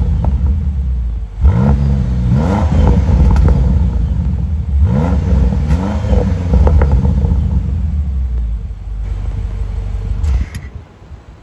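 Defender OCTA's 4.4-litre petrol V8 revved twice in blips, about a second in and again about five seconds in, the pitch sweeping up then falling back. It settles to a steadier run and cuts off abruptly near the end.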